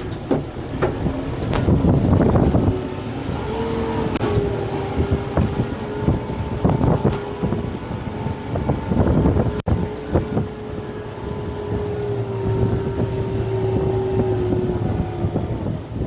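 Kubota M6-141 tractor's diesel engine working under load, with a steady whine that sags slightly in pitch and repeated sharp cracks and knocks as the root grapple tears into brush and trees.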